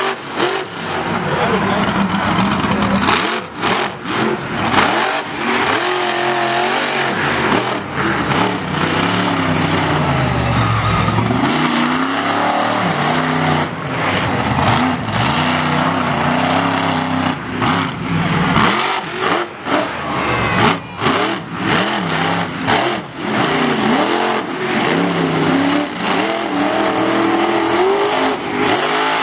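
Loud motorsport vehicle engines revving and accelerating, their pitch rising and falling again and again.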